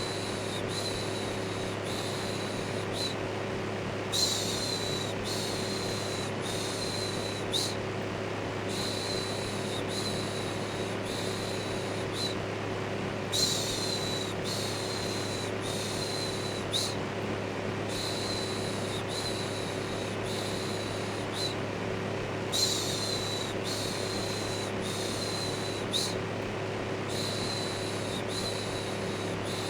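White-noise mix of an electric fan's steady hum and rush with a looped 'shhh' shushing on top. The shushes repeat about once a second, with a short break every four to five seconds.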